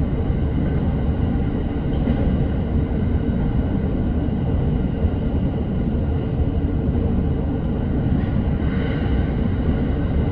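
Commuter electric train running at speed: the steady rumble of the wheels on the rails. A brief higher-pitched whine rises over the rumble about nine seconds in.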